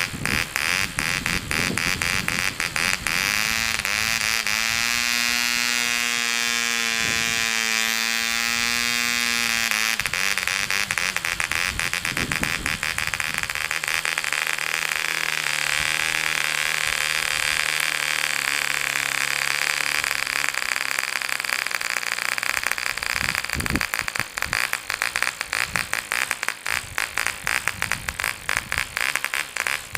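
Home-made 0.8cc model engine running at high speed with a high-pitched whine. Its pitch holds steady for several seconds, then settles lower around the middle, and for the last few seconds it runs rougher, with uneven firing.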